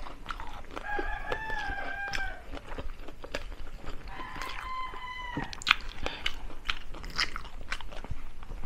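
Close-up chewing and crunching of crispy deep-fried chicken feet, bones included, as a run of sharp crackling clicks. Two held high tones of about a second and a half each sound over it, one near the start and one midway.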